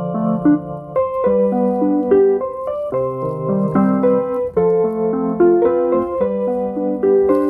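Piano-voiced keyboard music: a melody played over held chords and low bass notes.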